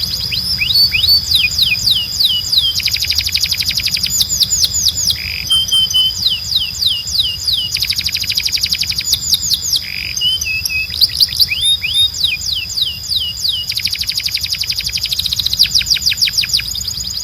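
Canary song: phrases of rapid falling whistled notes, several a second, broken by short pauses. Under it runs a steady high-pitched tone and a low hum.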